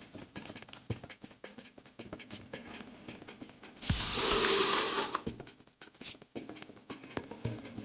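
Irregular light tapping and clicking, with a burst of hiss lasting about a second just past the middle.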